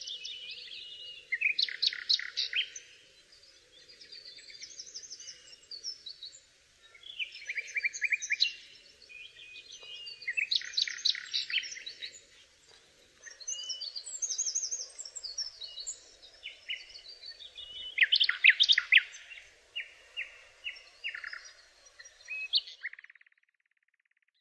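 A songbird singing in separate phrases of fast trills and repeated notes, with short pauses between them. The song cuts off near the end.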